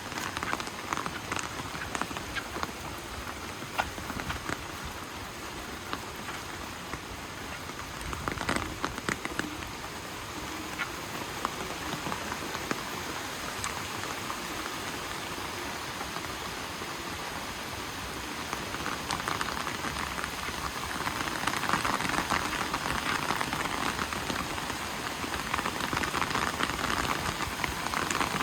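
Steady rain falling, with many close drops pattering on surfaces; it grows heavier and louder about two-thirds of the way through.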